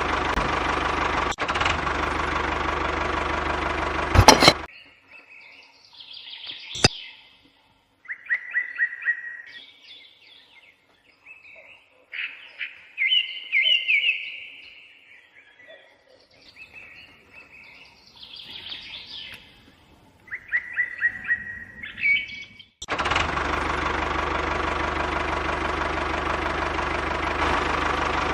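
A small engine of a DIY miniature diesel-engine water pump running steadily, cutting off abruptly after about four and a half seconds. Birds chirping in short repeated calls follow, and the engine sound comes back abruptly near the end.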